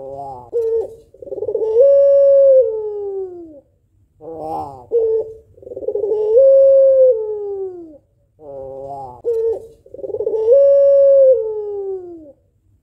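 White female Barbary dove (puter pelung) cooing: three long calls, about four seconds apart. Each opens with a short stuttering burst and then draws out into a long coo that holds and slides down in pitch at the end.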